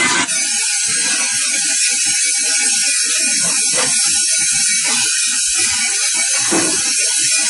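Steady hissing mechanical noise of factory production-line machinery, with scattered faint knocks underneath.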